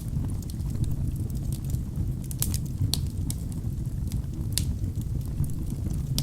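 Wood fire burning in a fireplace: a steady low rumble of flames with scattered sharp crackles and pops of burning logs, a few louder pops about two and a half, three and four and a half seconds in.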